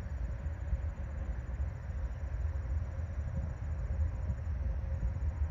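Freight cars of a slow-moving CSX manifest train rolling past, a steady low rumble.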